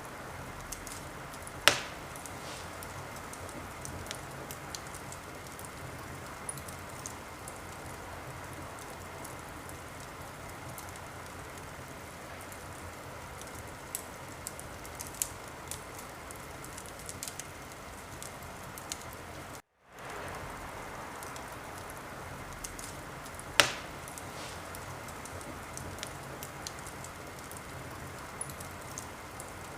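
Wood fire crackling in a fireplace: a steady hiss with scattered small crackles and two loud, sharp pops, one about two seconds in and one about twenty-four seconds in. The sound cuts out for a moment at about twenty seconds.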